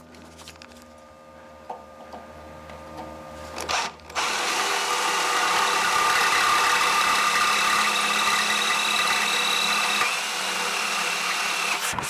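A small electric power tool motor starts about four seconds in and runs steadily at high speed with a whine for about eight seconds, then is switched off and winds down. Before it starts there are only a few light handling clicks.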